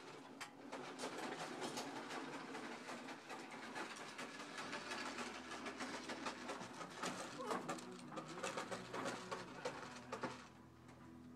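The Ford 6.9-litre IDI diesel V8 of a 1987 F-250 running cold, with a dense, irregular clatter. The clatter eases near the end, leaving a steadier hum.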